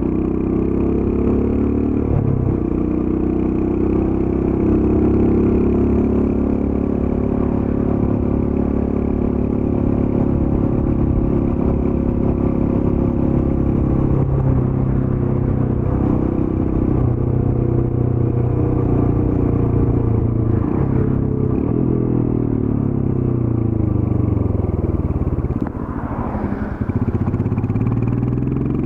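Royal Enfield Scram 411's single-cylinder engine through its stock exhaust, running under way at a brisk pace. Its pitch rises and falls with throttle and gear changes. Near the end it briefly drops off, then picks up again.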